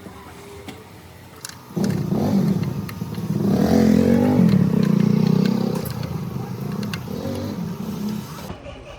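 A motor vehicle's engine, coming in suddenly about two seconds in, swelling louder with its pitch bending, then easing off toward the end.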